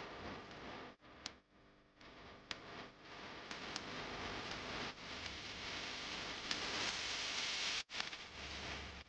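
A drawing tool scratching on paper in strokes, growing louder and denser for a few seconds before stopping sharply near the end, with a few faint clicks.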